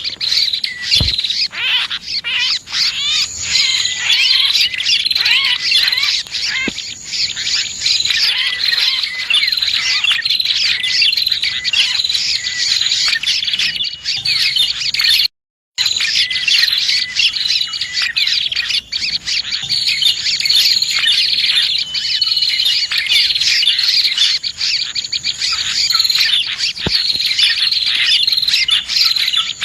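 Dense, continuous chirping and trilling of many small birds, including prinias (prenjak), as used in a bird-luring call recording. The sound cuts out completely for about half a second near the middle, then resumes.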